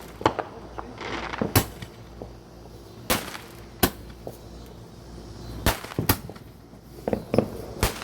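Small firecrackers popping: about six sharp cracks at irregular intervals, a second or so apart.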